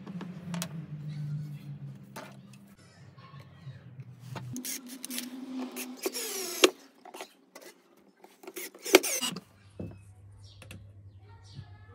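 Hand tool work on wood: scattered knocks and clicks, with two short, loud scraping strokes, the first about six seconds in and the second about three seconds later.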